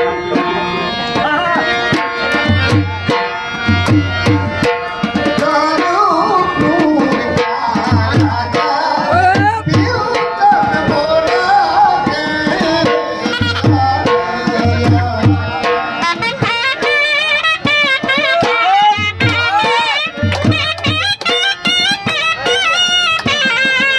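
Gujarati folk music: a sarnai (double-reed pipe) playing a wavering, ornamented melody over steady dhol drumming.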